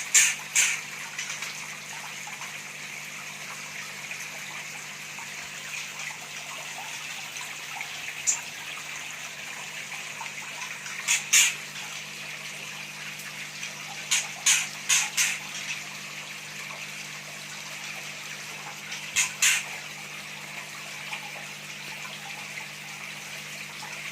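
Steady running, trickling water over a low steady hum. Short sharp sounds come through it singly and in quick runs of two to four.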